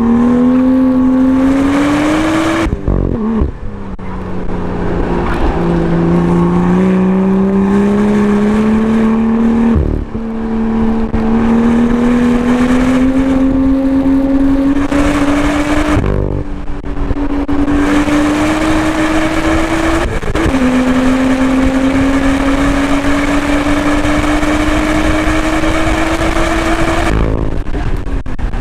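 BMW M2's turbocharged inline-six pulling hard on track, its pitch climbing slowly, with sudden drops in pitch about 3, 10, 16 and 20 seconds in as the gears change or the throttle lifts. The level dips briefly near the end.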